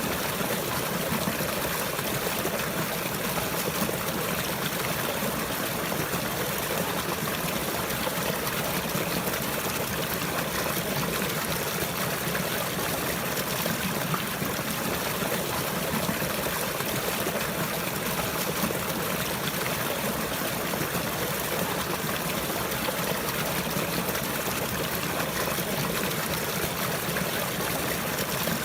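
Running water, a steady trickling stream flowing without a break.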